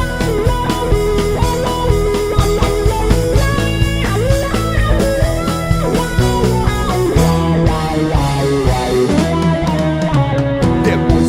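Instrumental passage of a Brazilian bandinha dance song: a plucked guitar melody over bass and a drum kit, with no singing.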